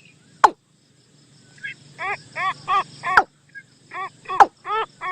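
Decoy call of the bird the title calls nok toom (นกตูม), played back for luring: runs of short rising-and-falling notes, about three a second, starting about a second and a half in, with a few sharp clicks among them.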